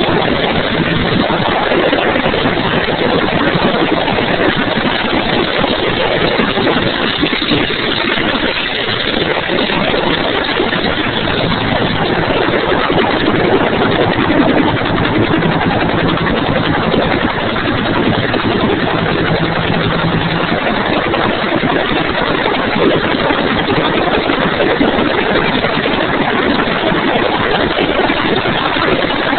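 Bell 205 helicopter's turbine and rotor running, a loud steady roar with faint low tones under it.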